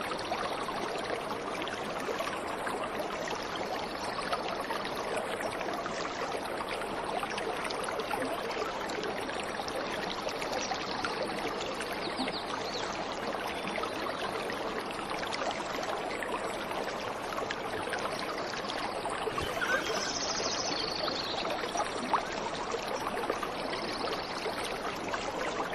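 Steady rushing and splashing of water falling in a waterfall, with a few faint, brief high bird calls over it.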